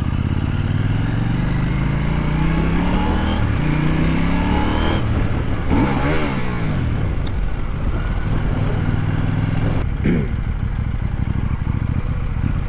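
Motorcycle engine pulling through the gears, its pitch climbing in steps over the first few seconds, then dropping and climbing again about six seconds in before running fairly steady. A single sharp click about ten seconds in.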